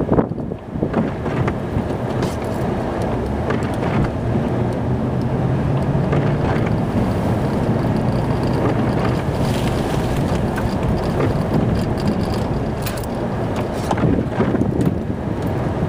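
Plow truck running while pushing snow, heard from inside the cab as a steady rumble and rush; a low engine note comes up in the middle, with a few knocks near the end.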